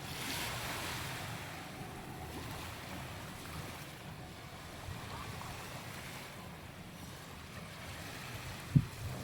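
Small sea waves washing onto a sandy beach, with a swell of surf in the first second or so. A brief low thump near the end stands out as the loudest moment.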